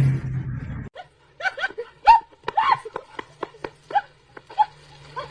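A dog giving a rapid string of short, high yips, about a dozen over four seconds, starting about a second in after a burst of louder noise cuts off.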